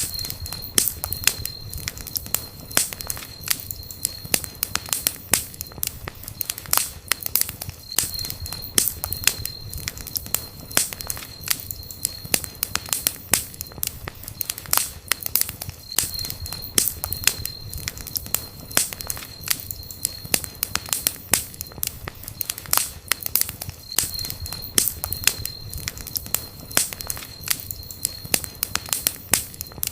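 Campfire crackling and popping: dense, irregular snaps of burning wood over a low rumble of flames. A faint high whistle comes and goes every eight seconds or so.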